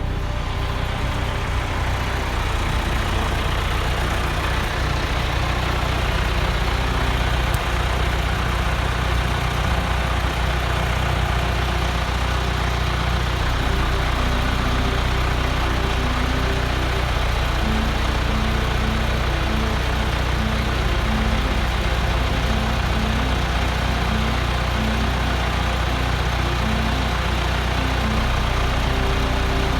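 An engine running steadily at an even speed, with a deep, unchanging hum. From about halfway in, short repeated higher tones come and go over it.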